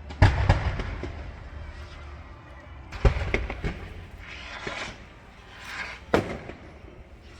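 Fireworks going off: several sharp bangs that echo, the loudest about a quarter second in, about three seconds in and just after six seconds, with crackling swells in between.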